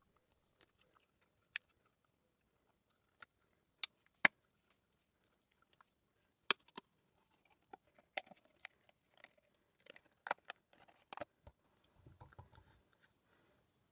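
Scattered sharp clicks and faint rustling as a silicone mould is flexed and peeled and cured resin pieces are popped out of it.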